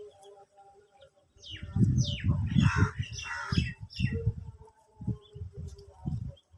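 Birds calling: a few quick falling chirps followed by harsher calls, over loud low thumping and rustling that starts about a second in.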